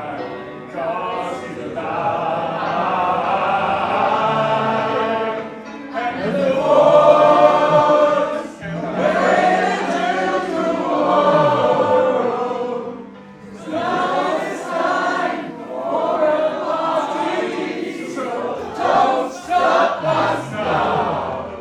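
Choral music: many voices singing sustained phrases together, swelling and easing every few seconds.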